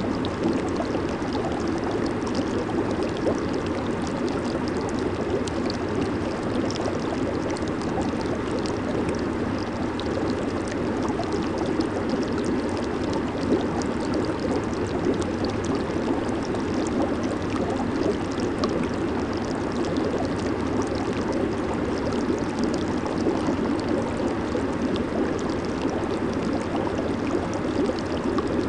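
Hot tub water bubbling and churning steadily, a continuous rushing with fine fizzing crackle.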